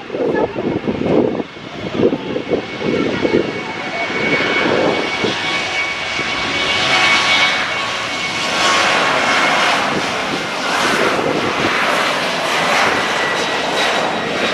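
Airliner engines running, a steady roar with a thin high whine that grows fuller about four seconds in.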